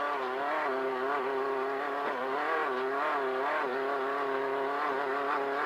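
Engine of a VW Beetle-based desert race car running hard, heard from inside the car, its pitch wavering up and down every half second or so as the revs change.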